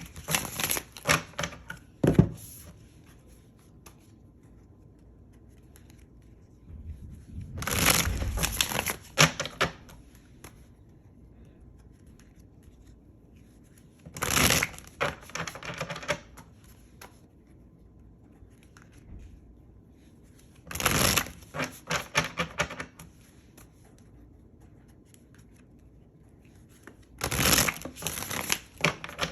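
Tarot deck being shuffled by hand: five short bursts of rapid card flicking and riffling, each a couple of seconds long, with quiet pauses between.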